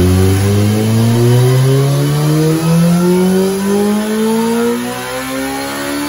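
Kawasaki ZX14R's inline-four engine with Two Brothers slip-on mufflers, making a full-power pull on a chassis dyno. The engine note rises steadily as the revs climb under load.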